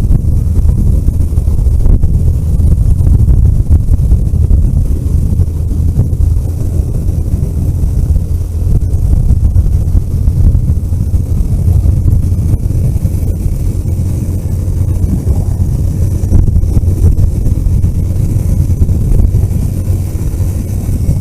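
Car driving along a road: a steady, loud low rumble of engine and tyres, with a hiss of wind.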